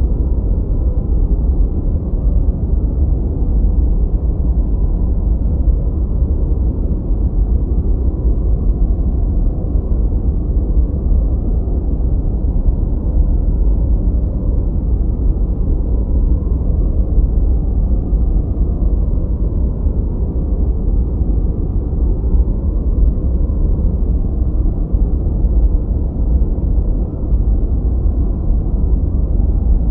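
Steady generated noise, deep and muffled: all its weight sits in the bass with almost nothing in the treble, closer to brown noise than to true white noise. Even and unchanging, with no other sound in it.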